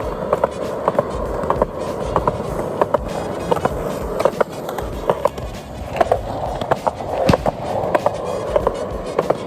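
Skateboard wheels rolling with repeated sharp clacks and knocks of the board, with music playing.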